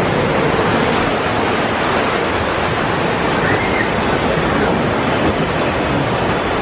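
Steady rushing and splashing water of a river-rapids raft ride, heard from aboard the raft.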